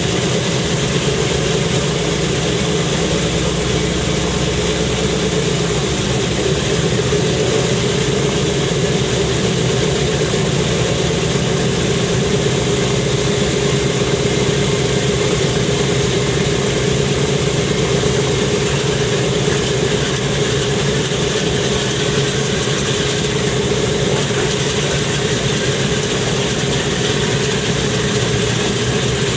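An aircraft engine idling steadily, a constant hum over an even hiss that does not change.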